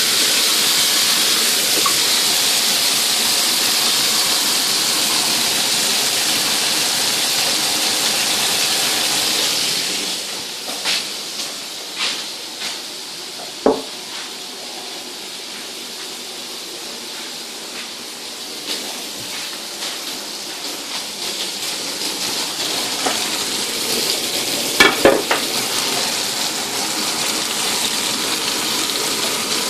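Vegetable skewers and a flatbread sizzling in oil in a hot frying pan, a steady hiss. The sizzle turns fainter about ten seconds in and grows louder again toward the end, with scattered clicks and a short burst of knocks, the loudest moment, a few seconds before the end.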